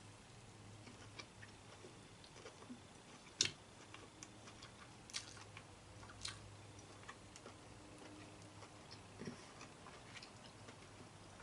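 Faint close-up eating sounds: scattered soft clicks and smacks of chewing crab claw meat, the loudest about three and a half seconds in, over a faint steady low hum.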